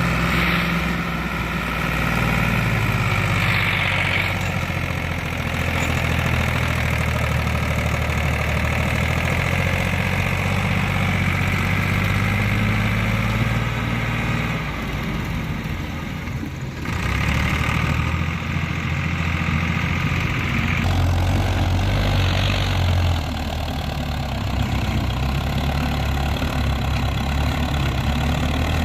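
Diesel tractor engine running steadily while hauling a heavy load of mud, its engine note shifting a few times.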